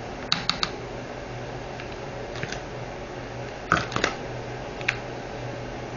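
Light clicks and taps of small items being handled at a work table, in small groups: three quick clicks just after the start, a couple around two and a half seconds in, a cluster about four seconds in and one more near five seconds.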